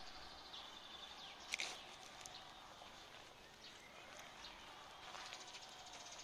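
Birds chirping faintly over a quiet outdoor background, with the sharpest call about one and a half seconds in and a rapid ticking trill near the end.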